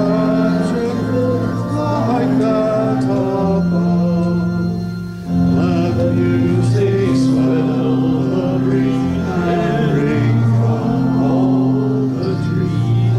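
Organ with singers performing a sacred song in held, sustained chords, with a short break between phrases about five seconds in.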